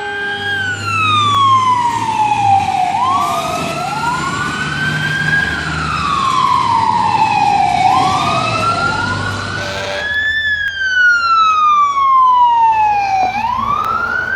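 Fire truck siren wailing, its pitch rising quickly and falling slowly in cycles of a few seconds, with a second wail running slightly out of step, over the low rumble of the truck's engine.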